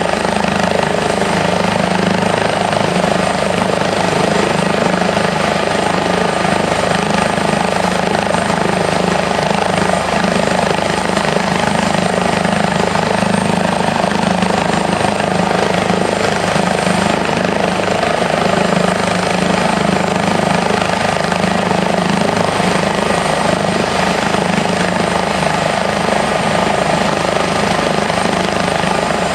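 Airbus H145 twin-turbine helicopter running steadily, its rotor and engines making a loud, even sound with a thin high turbine whine over it.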